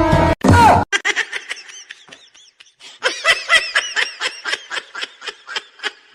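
High-pitched giggling laughter: a quick run of short laughs, about four a second, getting louder about halfway through. A loud sound cuts off right at the start, and a short loud burst follows just after.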